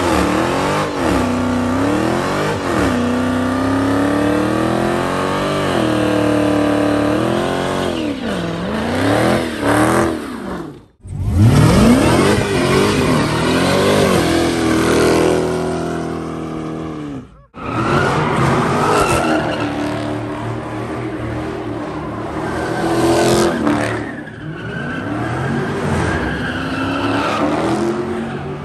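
Dodge Charger muscle car engines revving hard through burnouts and drifts, the pitch sweeping up and down with the throttle, with tyres squealing and skidding. The sound cuts off abruptly twice, about eleven and seventeen seconds in, as one car's run gives way to the next.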